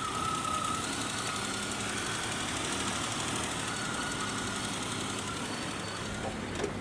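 1984 Suzuki FX's 796 cc three-cylinder petrol engine idling steadily, heard with the bonnet open. The seller calls it a sound engine.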